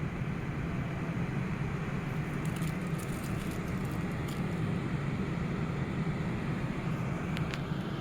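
Steady low whirring rumble of a DC ventilation fan running, with a few faint ticks near the end.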